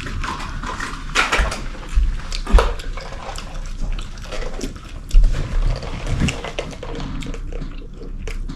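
Close-miked chewing and mouth smacking while eating fried chicken wings: irregular wet, crisp clicks with a few low bumps.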